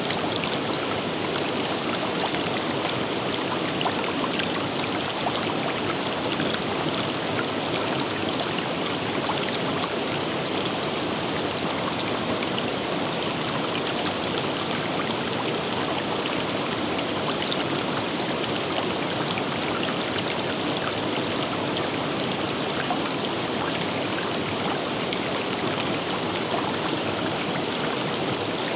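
A river running over rocks in a steady rush of flowing water, with fine splashes and trickles throughout.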